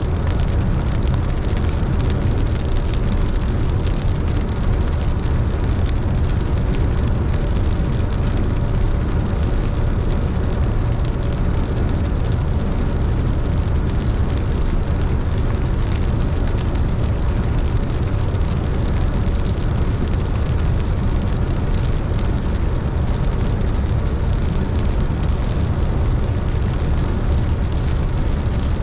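Car driving on a wet road in the rain: a steady mix of engine, tyre noise and rain.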